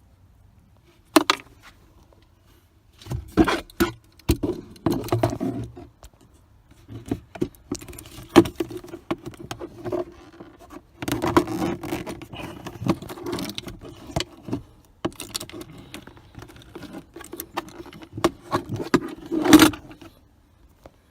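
Hands working the plastic cover and trim around a SsangYong Rexton Sports' cabin air filter housing. A sharp click comes about a second in, then irregular bouts of clattering, rattling and scraping, with the loudest knock near the end.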